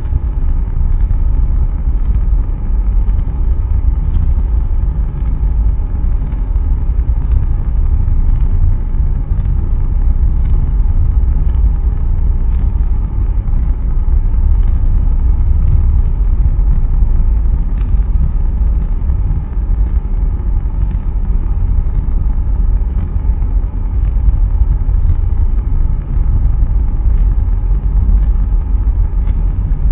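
Blue Origin BE-3U hydrogen-fuelled rocket engine firing in a hotfire test: a loud, steady, deep rumble with a faint crackle.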